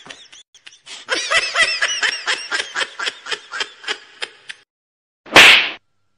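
High-pitched laughter, a rapid string of giggles that stops abruptly a little past halfway. Near the end comes a loud, short, noisy burst, the loudest sound here.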